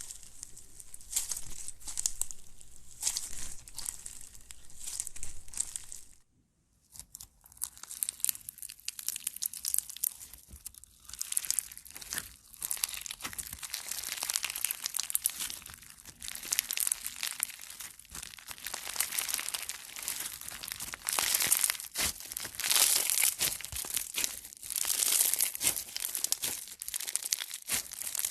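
Crunchy slime being squeezed and kneaded by hand, a dense, irregular crackling and popping. It breaks off for about a second, six seconds in, then resumes.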